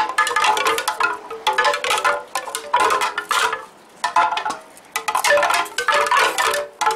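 Wind chimes ringing: clusters of overlapping strikes that ring on, coming and going irregularly, with a short lull about four seconds in.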